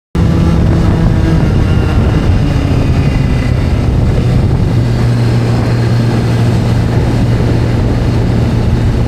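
Video-game sport motorcycle engine running at a steady, unchanging pitch, cutting in abruptly just after the start.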